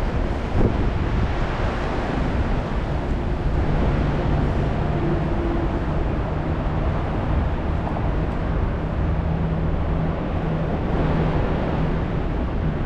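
Busy road traffic in wind and rain: a steady hiss of wet tyres, wind and rain, with a vehicle engine's low hum through the middle and a single short knock about half a second in.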